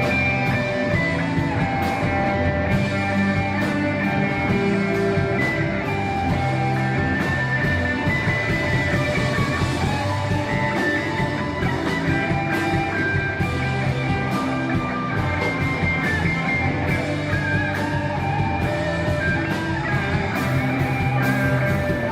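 Rock band playing loud and steady, with electric guitar over bass and drums.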